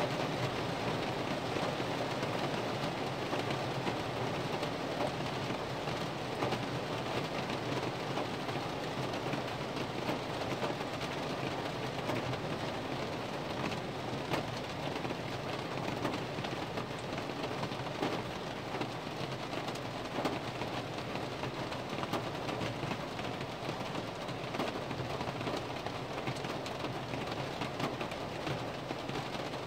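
Heavy rain falling on a car, heard from inside the cabin: a steady dense hiss of rain with many small taps of drops striking the glass and body.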